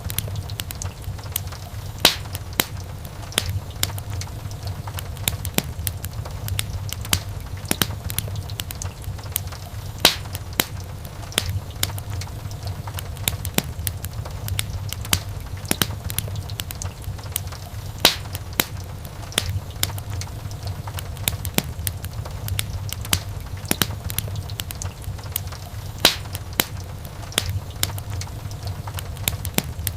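Wood fire crackling in a fireplace: many short pops and snaps over a steady low rumble of the flames, with a louder pop about every eight seconds.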